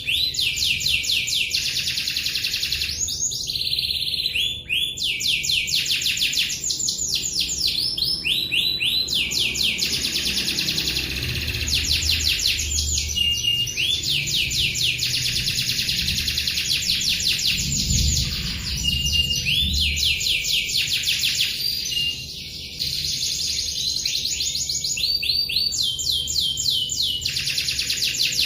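Domestic canary singing in long, rapid rolls of repeated trilled notes, almost without pause, with only brief breaks between phrases. This unbroken rolling is the strong, in-form song that canary keepers prize.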